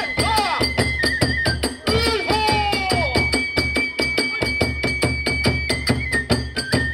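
Kagura ensemble playing a fast battle piece: drums and clashing hand cymbals keep a rapid, steady beat under a long held bamboo-flute line that steps in pitch a few times.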